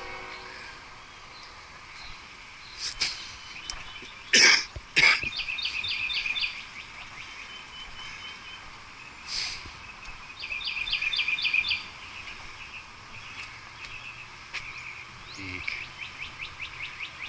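A songbird singing phrases of rapid, evenly spaced high notes, repeated three times several seconds apart. Two loud, short sounds about four and five seconds in are the loudest things heard.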